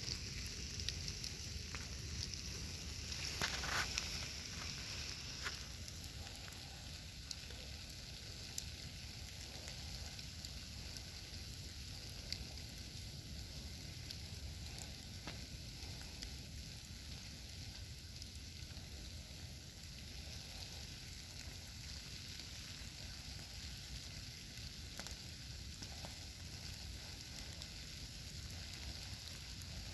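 Campfire burning with a steady hiss and scattered sharp crackles and pops, with a louder burst of crackling a few seconds in.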